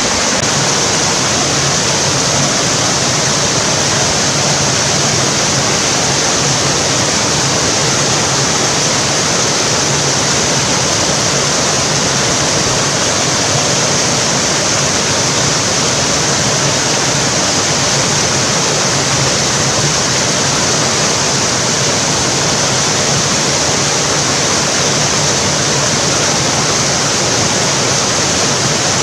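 Steady rush of a mountain stream's water, an even, unbroken noise.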